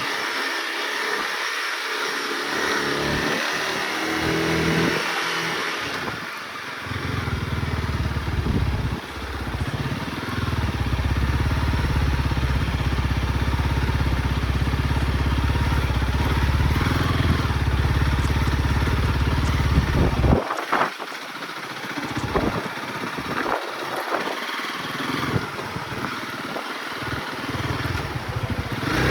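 Honda CRF motorcycle being ridden, its engine running at a steady pitch through the middle of the stretch over a constant rushing noise. Near two-thirds of the way through, the engine note breaks off and comes back only in short snatches.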